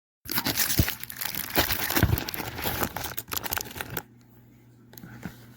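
Product packaging being handled and unwrapped, with dense crinkling that stops about four seconds in, leaving a faint low hum and a few light clicks.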